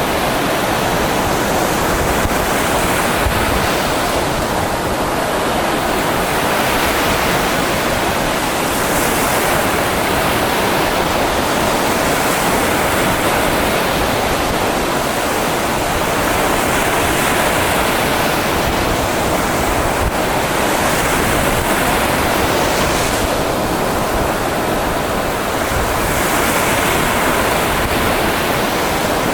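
Mediterranean Sea waves washing onto the shore: a steady rushing surf that swells slightly every few seconds.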